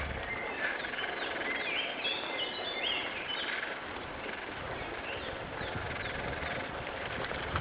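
A songbird singing: a quick run of high whistled notes from about half a second to four seconds in, then a few scattered chirps, over a steady background hiss.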